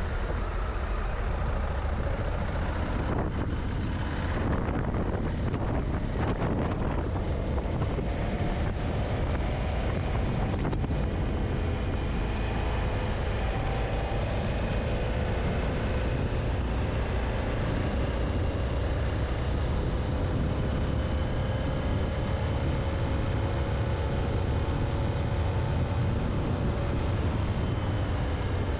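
Honda Africa Twin motorcycle's twin-cylinder engine running steadily while riding along a gravel track, its pitch drifting slightly with small changes in speed, mixed with wind noise on the microphone.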